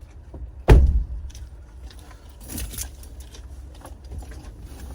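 A single heavy thump about a second in, then scattered light clicks and rattles.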